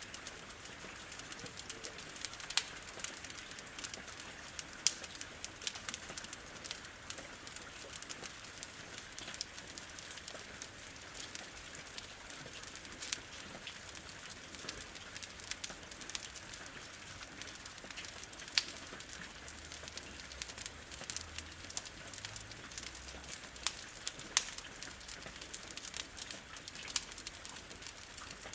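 Wood fire crackling, with many small ticks and a few sharper pops, over a steady hiss of rain.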